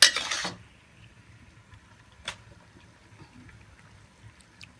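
A spatula scraping sesame chicken from the pan onto a serving plate: a short, loud scrape at the start, then quiet with a single clink about two seconds in.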